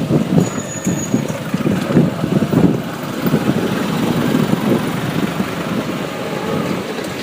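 Road traffic heard while riding a bike: an uneven low rumble of engines that swells and dips. A brief thin high whistle sounds about half a second in.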